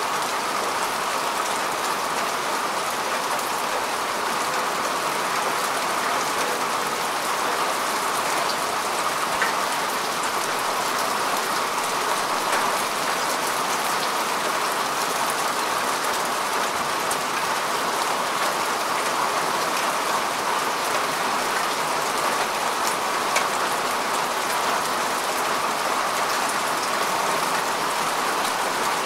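Steady rain falling on grass and earth, an even hiss of many drops with scattered individual drop ticks.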